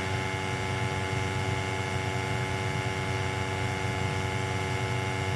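Lochinvar atmospheric gas boiler running with its burners firing, a steady hum made up of several constant tones.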